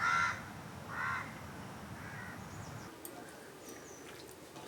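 A crow cawing three times, the calls growing fainter, the last about two seconds in.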